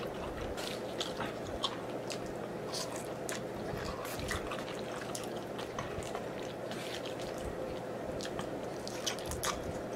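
A person chewing a mouthful of black bean noodles close to the microphone, with scattered short wet clicks and smacks of the mouth.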